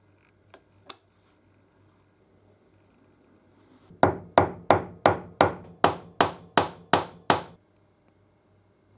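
Two light knocks, then a run of about ten quick hammer blows on metal, roughly three a second, each with a short ring.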